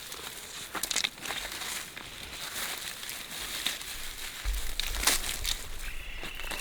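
Crinkling, rustling handling sounds with many scattered small clicks and crackles, joined by a low rumble from about four and a half seconds in and a faint steady high tone near the end.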